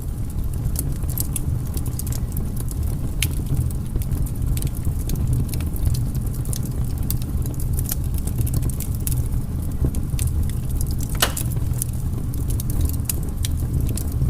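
Firewood burning: wood crackling with many sharp pops over a steady low rumble, one louder pop about eleven seconds in.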